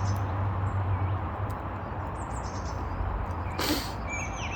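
Wild birds chirping in short high calls, with a lower call near the end, over a steady background hiss. A brief scratchy burst about three and a half seconds in.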